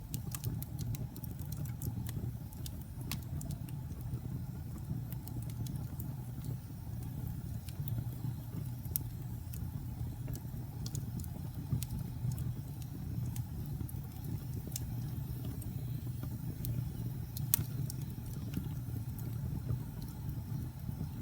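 Wood fire crackling: scattered sharp pops and snaps, a couple of them louder, over a steady low rumble of burning flames.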